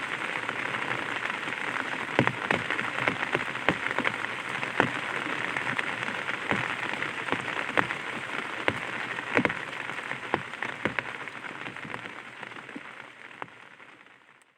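Light rain pattering on an umbrella: a steady hiss with frequent sharp individual drop hits, fading out over the last couple of seconds.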